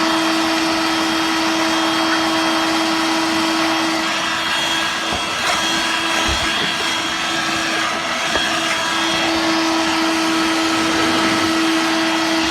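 Dirt Devil Vibe corded stick vacuum, used as a handheld, running steadily with a constant motor whine while vacuuming up cat litter. A couple of low knocks come around the middle.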